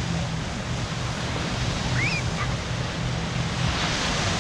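Steady outdoor wash of surf and wind noise, with a single short, high yelp that rises and then drops about two seconds in.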